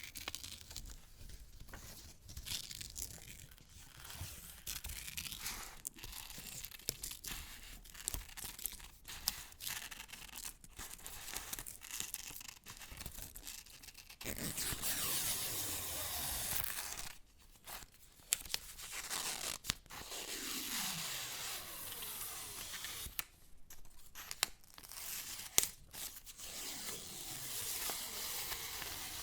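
Paper handled close to the microphone: crinkling, rubbing and tearing, with many small crackles. There is a longer, louder continuous stretch about halfway through.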